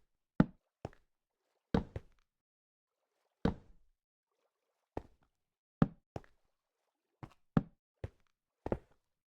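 A series of about eleven sharp knocks at uneven intervals, each dying away quickly, with silence between them.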